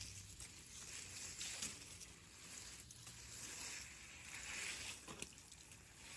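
Water spraying from a hose during a car wash: a steady hiss that swells and fades.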